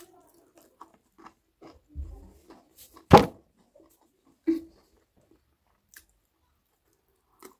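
Close-up chewing and wet mouth sounds of someone eating chicken curry with rice, with scattered small clicks and one loud sharp smack about three seconds in, and a smaller one a second and a half later.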